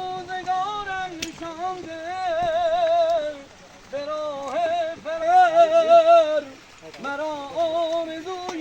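A man singing a Persian vocal melody in long, wavering phrases with quick trills and vibrato in the style of tahrir, breaking off twice for a breath.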